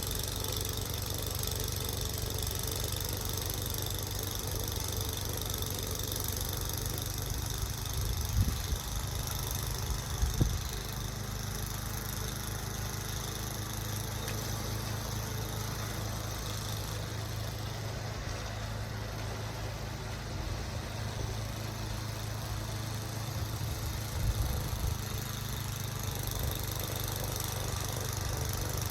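An engine running steadily at a low, even pitch, with three short knocks or thumps: two close together about a third of the way in and one near the end.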